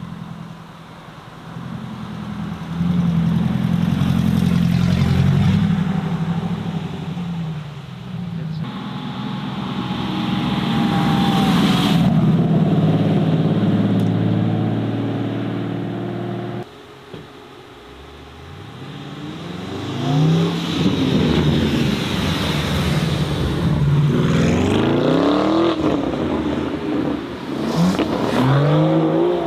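Sports car and supercar engines as cars pull away one after another: idling and steady running at first, then from about two-thirds of the way through, repeated rising revs, each climb broken off and started again as the car accelerates through the gears.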